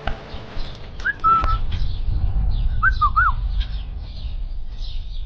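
Captive birds calling: a couple of short clear whistled notes about a second in, a quick run of looping whistles about three seconds in, and faint high chirping from other birds throughout. A loud low rumble on the microphone sets in about a second and a half in.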